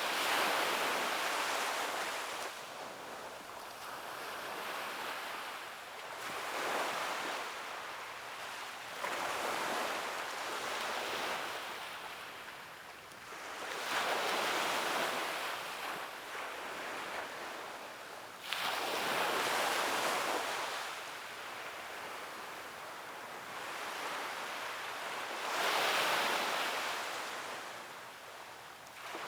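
Sea waves breaking and washing up a beach, surging in roughly every four to six seconds and hissing back out between them.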